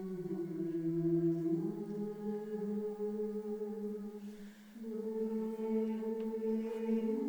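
Choir singing long held notes without words, the pitch stepping up about a second and a half in, again about five seconds in after a brief drop in level, and once more near the end.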